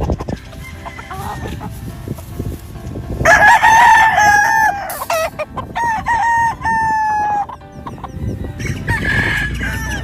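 Gamefowl roosters crowing: one long crow about three seconds in, a second about six seconds in, and a shorter one near the end.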